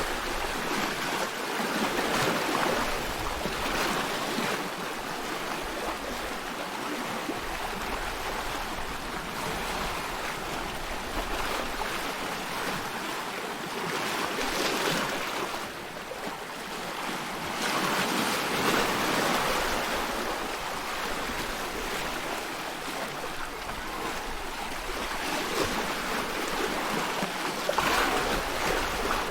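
Ocean surf: a continuous rush of sea water that swells louder and eases off again every several seconds.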